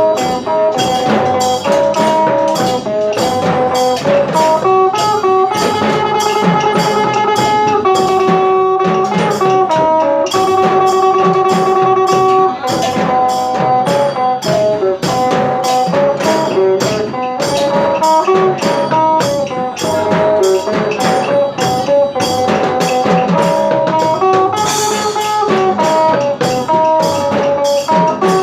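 Phin, the plucked Isan lute, playing a lively melody of repeated and held notes over a steady drum and percussion beat.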